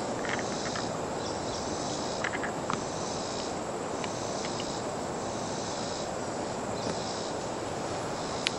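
Air pump inflating a chamber of an inflatable raft: steady air noise with a regular, repeating hiss from the pump strokes and a few small clicks.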